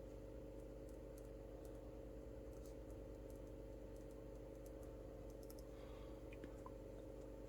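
Faint, scattered light clicks over a steady low electrical hum.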